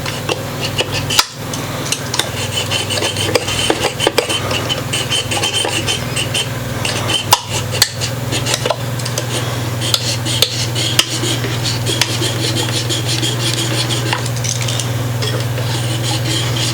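Wooden toothpick plugs in a guitar body's old screw holes being cut off flush, with quick, uneven rasping and scraping strokes and small clicks over a steady low hum.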